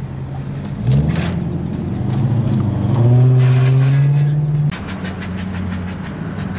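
Car engine idling and being revved: a short blip about a second in, then a longer higher rev held for nearly two seconds before it drops back to idle. Quick regular ticking follows the drop.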